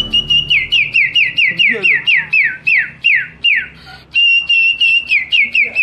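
A boy whistling an imitation of birdsong: a high held note that breaks into a fast run of downward-slurred notes, about five a second. There is a short break about four seconds in, then the held note and the falling notes again.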